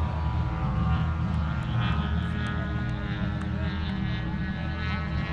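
Radio-controlled scale model WW2 fighter flying overhead, its propeller engine giving a steady drone at a level pitch.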